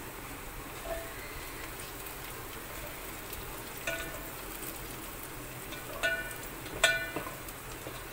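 Sliced onions and cumin seeds sizzling steadily in hot oil in a metal pot, stirred with a spatula that knocks against the pot in a few ringing metallic clinks, the loudest near the end.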